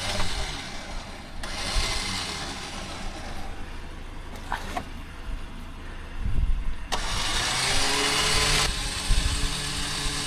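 A vehicle engine running with a steady low hum, broken by two spells of loud rushing noise, one early and one about seven seconds in; a steadier engine note comes in near the end.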